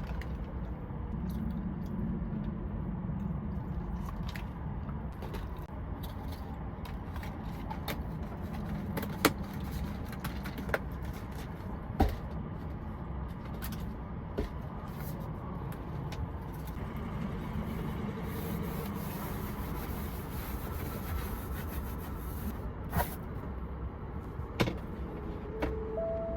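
Steady low rumble of a truck heard inside the cab, with scattered sharp clicks and knocks over it.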